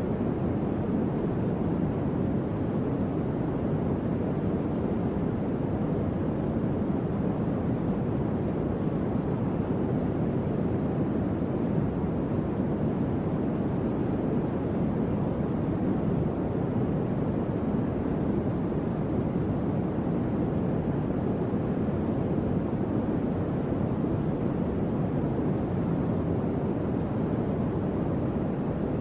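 Electric fan running steadily: an even, deep rush of air with no distinct hum, clicks or changes in speed.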